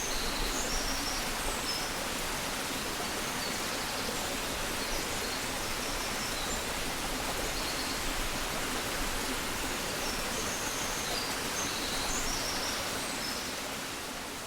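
Dawn countryside ambience: a steady rushing hiss with faint, short, high bird chirps scattered through it, beginning to fade out near the end.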